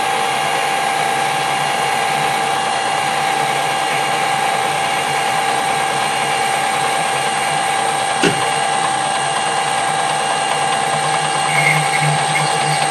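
Metal-turning lathe running steadily with a constant geared whine while taking a very light internal boring skim. A single sharp click about eight seconds in.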